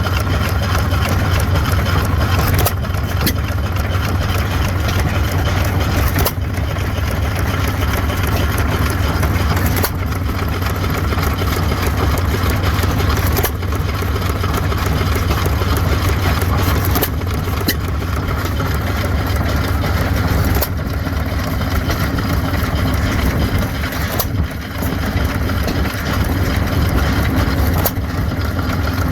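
2 hp Stover Type K hit-and-miss gasoline engine running, with a steady low chugging and a sharper burst about every three and a half seconds.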